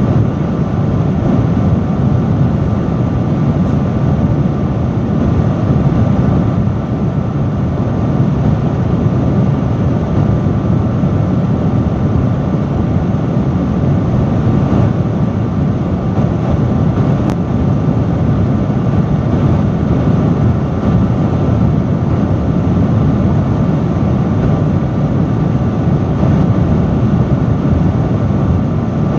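Industrial fan running steadily at high speed: a loud, constant rush of air with a low rumble and a faint steady hum.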